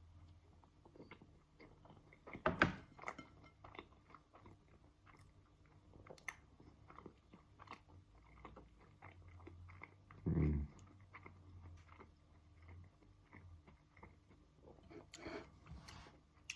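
A person chewing a mouthful of soft tofu and couscous close to the microphone, with many small mouth clicks. There is a sharper click about two and a half seconds in and a short low sound about ten seconds in.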